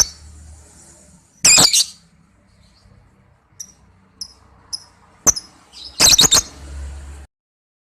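Lovebird giving loud, high-pitched call bursts: one right at the start, a double burst about a second and a half in, faint short chirps in the middle, then a sharp call and a quick string of calls about five to six seconds in, cut off abruptly near the end.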